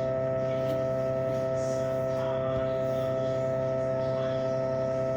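A steady electrical hum made of several held tones, with a few faint soft rustles.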